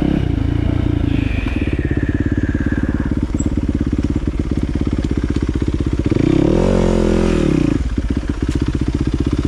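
Dirt bike engine idling with a fast, even pulse, given one throttle blip about six seconds in that rises and falls back to idle.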